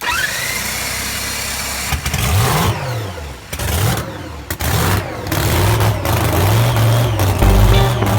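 Nitro funny car engine revving, its pitch rising and falling several times.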